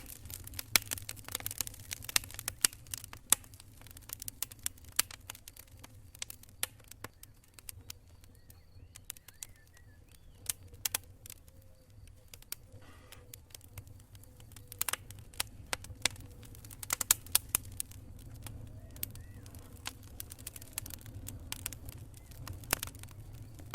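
Wood campfire crackling, with irregular sharp pops and snaps, over a low steady rumble. The pops come thickest in the first few seconds and again in a cluster past the middle.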